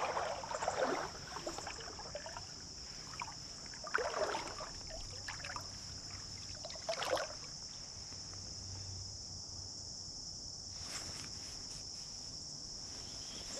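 Creek water sloshing and splashing around a wading angler's legs, with short splashes about a second in, about four seconds in and about seven seconds in, over a steady high-pitched insect drone.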